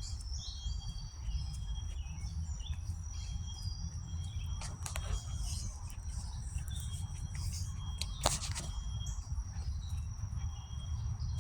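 Outdoor ambience by the water: short bird chirps and a steady high-pitched whine over a low rumble on the microphone, with a couple of sharp clicks, one about eight seconds in.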